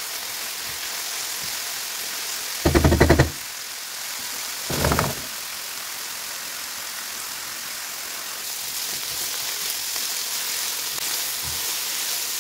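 Minced meat with green pepper and onion sizzling in a nonstick frying pan, a steady hiss. There is a brief rapid rattling knock about three seconds in and a shorter clank about five seconds in.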